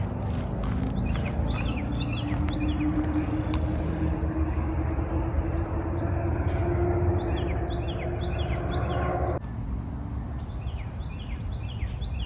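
A songbird sings several runs of quick, downward-slurred chirps over a steady low rumble. A faint droning hum rises slowly, then cuts off abruptly about nine seconds in.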